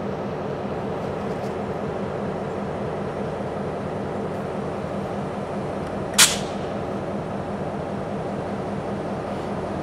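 Freight train with a diesel locomotive, a steady rumble with a low engine hum. About six seconds in, one short, sharp hiss of air.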